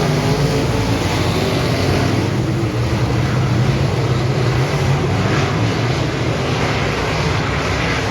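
Dirt modified race car engine running steadily at speed under a dense rush of noise.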